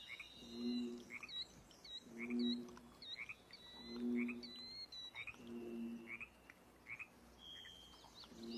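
Woodland ambience: small birds chirping and whistling. A low two-note call repeats about every second and a half to two seconds beneath them.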